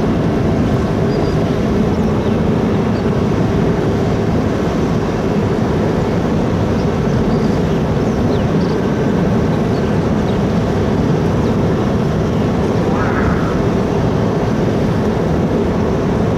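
Large car ferry's engines and machinery running, a steady low drone with a constant hum while the ship comes into port.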